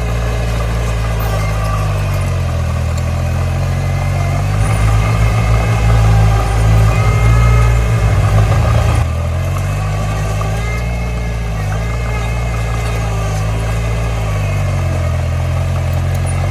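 Komatsu D20 bulldozer's diesel engine running steadily, working harder for a few seconds midway with a louder, rougher note, then easing back abruptly about nine seconds in.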